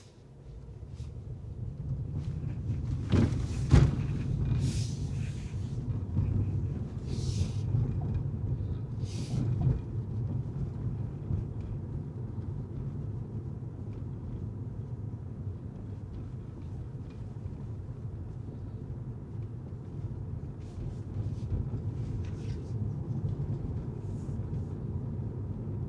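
Car driving, a steady low rumble of engine and tyres on the road that swells up from near silence over the first two seconds. A few sharp knocks come about three to four seconds in, and short hissing swishes follow several times over the next six seconds.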